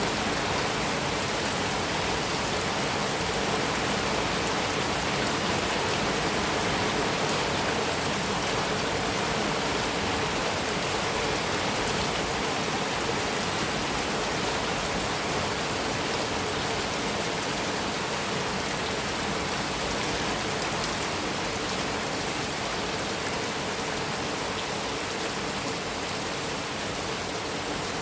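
Heavy rain falling steadily on a metal roof, a continuous hiss of drops with no thunder heard.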